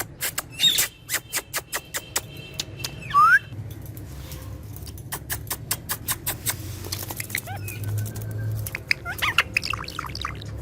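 Green ringneck parakeet chirping and making short whistled calls, one a quick rising call about three seconds in, among many sharp clicks and taps. A steady low hum sets in about halfway through.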